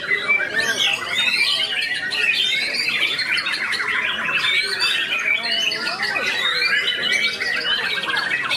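White-rumped shama (murai batu) singing a rapid, unbroken song of varied whistles, trills and chattering notes.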